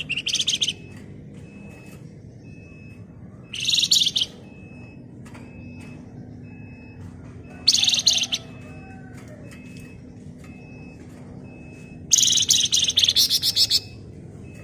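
Flamboyan songbird singing in rapid, high, chattering trills, in four bursts a few seconds apart; the last burst is the longest, nearly two seconds. A faint short high note repeats evenly in the background.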